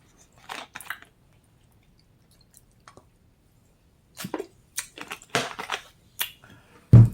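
Close-miked chewing and eating sounds in short, wet bursts. Near the end comes a single low thump, the loudest sound.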